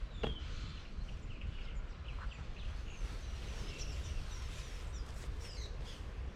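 Several small birds chirping and singing in short high notes and slurs, over a steady low rumble, with a single knock near the start.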